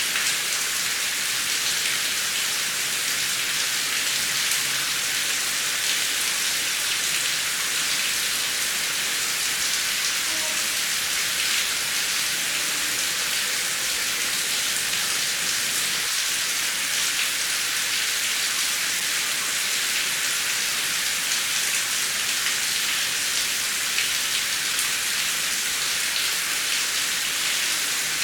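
Heavy rain falling steadily, a dense even patter with individual drops ticking through it.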